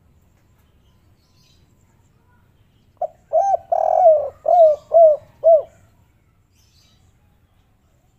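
Spotted dove cooing one phrase of about six short, rounded notes, the third a little longer, lasting a little over two seconds and starting about three seconds in.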